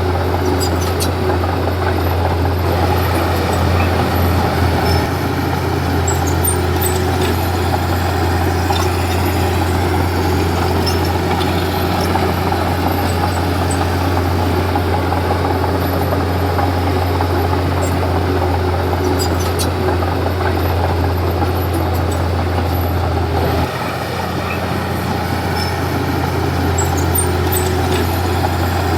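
Komatsu D31P bulldozer's diesel engine running steadily under work, with a strong low drone and a few faint metallic clicks; the engine note drops slightly about three-quarters of the way through.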